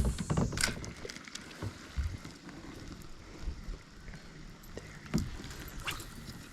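Wind buffeting the microphone in a loud low rumble at the start, then a steady low rush of wind and water around a kayak with a few scattered small knocks and taps.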